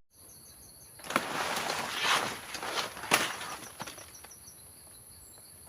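Outdoor rural ambience: a steady high-pitched drone with two runs of short repeated chirps, typical of insects and birds. From about a second in, a couple of seconds of rustling and scuffing with a few sharp clicks.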